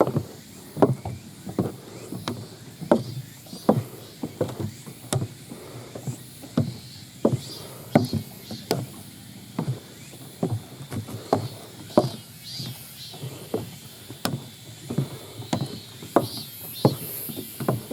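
Rhythmic clattering from the loose monitor of an old handheld video camera, knocking with each walking step, about three knocks every two seconds, with footsteps on a dirt mountain trail beneath it.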